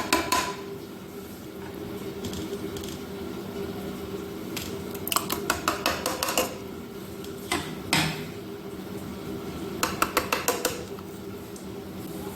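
Utensils clinking and scraping against dishes and a blender cup as soaked oats are spooned in: several short bursts of rapid clicks, about four bouts.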